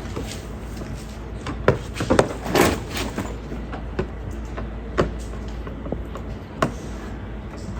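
Irregular knocks and clatter, with a longer noisy burst about two and a half seconds in, over a steady low hum.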